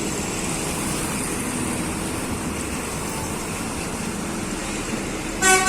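Steady vehicle engine and road noise. Just before the end, a loud multi-tone bus horn starts sounding, stepping through several pitches.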